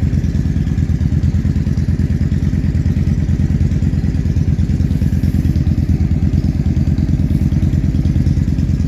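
Yamaha Drag Star 400's V-twin engine idling steadily with an even, rapid pulse.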